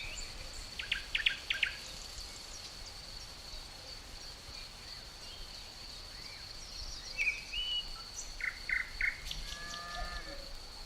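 Forest ambience: crickets keep up a steady, high, unbroken trill, over a low breeze rumble. Small birds chirp in quick bursts about a second in and again between about 7 and 9 seconds.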